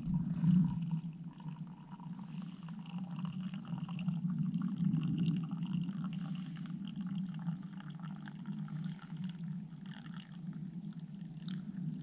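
Hot pine needle and wintergreen tea being poured into a mug in a steady, continuous trickle.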